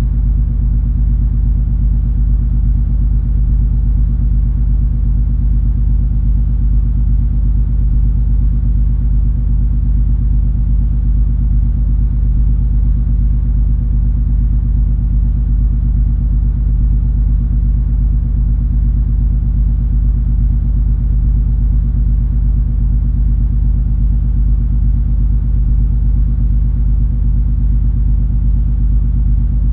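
Cruise ferry MS Color Magic's engine drone heard aboard: a steady, deep rumble with a low hum that does not change.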